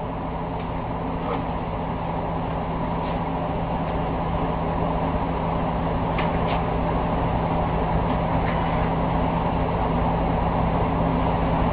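Steady motor-vehicle running and road noise with a constant low hum, slowly growing louder, with a few faint clicks.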